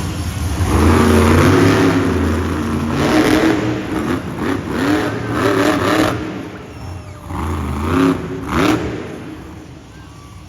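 Monster truck engine revving hard in repeated bursts, its pitch climbing and falling again and again during a wheelie run, getting quieter near the end.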